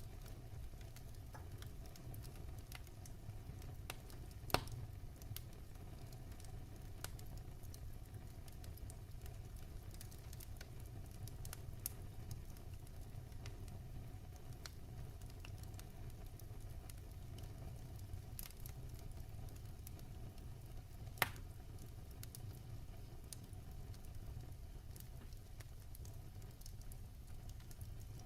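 Fire burning in a fireplace, crackling softly with many small scattered ticks over a steady low rumble. Two louder pops stand out, one about four and a half seconds in and one about twenty-one seconds in.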